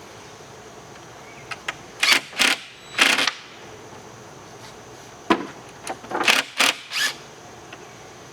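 Tools and wood being handled while a wooden frame is put together: two groups of short, clattering bursts of noise, three or four in each group, with a few small clicks between them.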